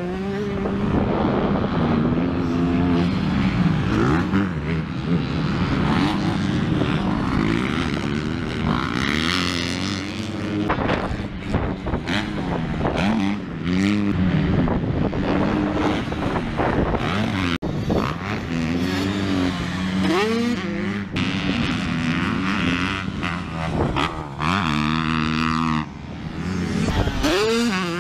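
Motocross dirt bike engine revving hard, its pitch climbing and dropping again and again as the throttle opens and closes and the gears change.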